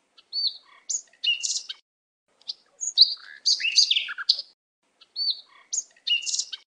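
Songbird chirping and whistling in short high phrases, with complete silence between them; the opening phrase comes again near the end.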